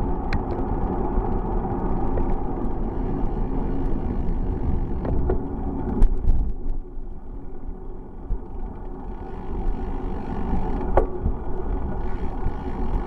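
Steady rumbling wind and road noise on the microphone of a moving bicycle, easing for a couple of seconds midway, with a few sharp clicks.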